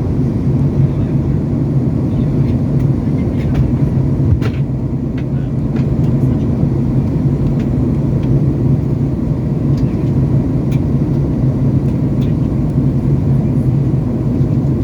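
Steady low drone of an airliner cabin in flight, the engines and rushing air making a constant rumble, with a few faint clicks on top.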